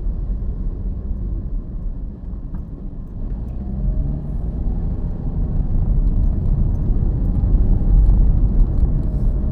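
Steady low rumble of a moving car's road and engine noise, growing louder after the middle.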